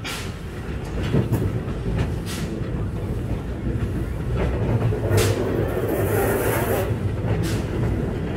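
Steam-hauled train rolling along the track: a steady low rumble with irregular sharp clacks from the wheels, and a brief hiss about five to seven seconds in.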